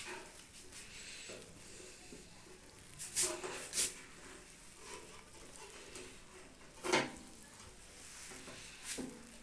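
A few sharp knocks and clicks of metal parts being fitted onto a microwave oven's sheet-metal body, with faint scraping and handling noise between them.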